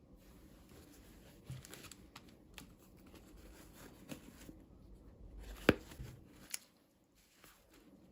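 Hands handling small plastic toys and packaging: light rustling and taps, with a sharp click a little before six seconds in and another just after.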